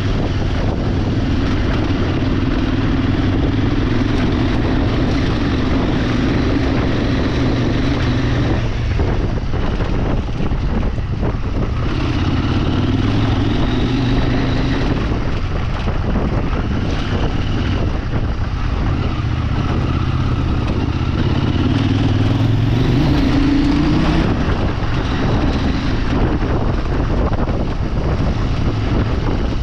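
Off-road vehicle's engine running on the move, its note rising and falling with the throttle, a sharp rise in revs a few seconds before the end, with wind rushing over the microphone.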